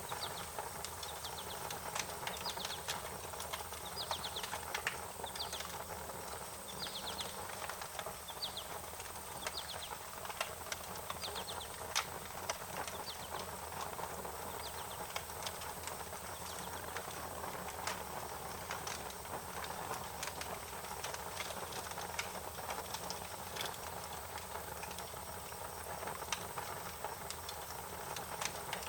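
Wood fire crackling, with scattered sharp pops over a steady hiss. A bird calls short high trills about once a second through the first half.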